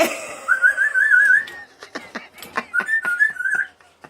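Senegal parrot giving two short warbling whistles, with a run of sharp clicks and taps between and around them.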